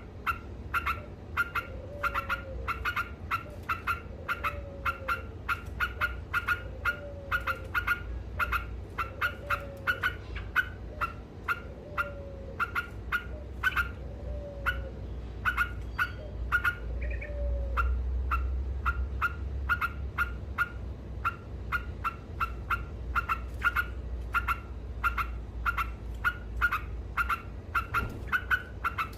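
Yellow-vented bulbul (trucuk) calling in a continuous rapid chatter of short, sharp notes, several a second without a break. A lower, falling call repeats about once a second alongside it and stops about halfway through.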